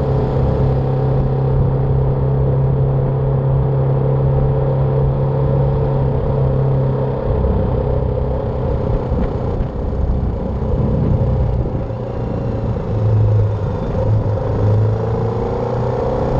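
BMW G310R's single-cylinder engine running under way, with wind rush. The engine note holds steady for the first several seconds, drops away in the middle and rises again near the end as the bike accelerates.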